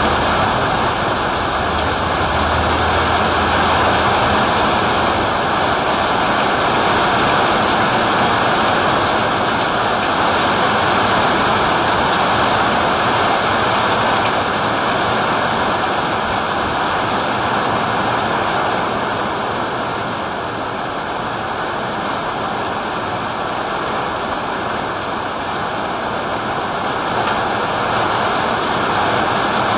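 Storm rain pouring steadily, a dense, even hiss that stays level throughout with no separate drops or gaps.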